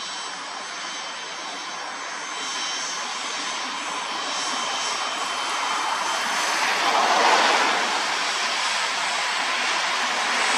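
Learjet C-21A's twin Garrett TFE731 turbofans running: a steady high whine over a rush of jet noise that grows louder, loudest about seven seconds in.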